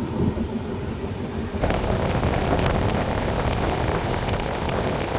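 Express passenger train running along the track, heard from on board. About a second and a half in, a louder rushing hiss comes in suddenly and stays.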